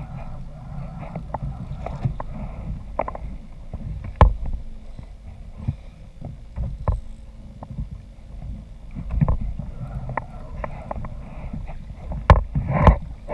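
Sounds of a fishing kayak on the water: a steady low rumble and wash, with scattered knocks. The loudest thump comes about four seconds in, and two more come close together near the end.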